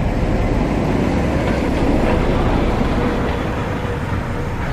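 Class 08 diesel shunter hauling a rake of coaches: a steady engine and rail rumble that swells over the first couple of seconds and eases slightly toward the end.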